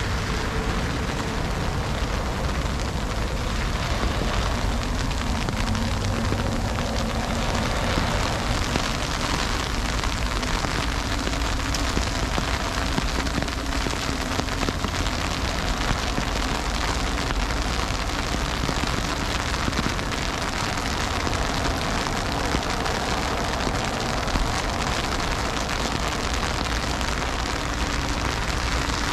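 Heavy freezing rain falling steadily, an even hiss of rain with a low steady rumble underneath.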